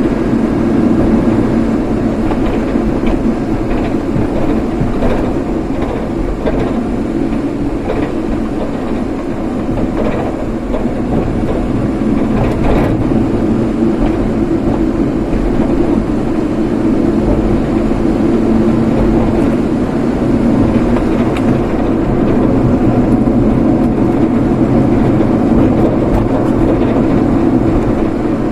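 Steady drone of a vehicle being driven, engine and road noise, with a few faint clicks over it.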